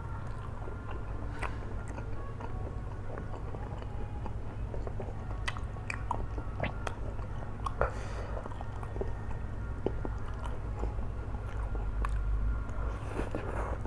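Close-miked chewing of flat rice noodles in hot sauce, with irregular wet mouth clicks and smacks, over a steady low hum.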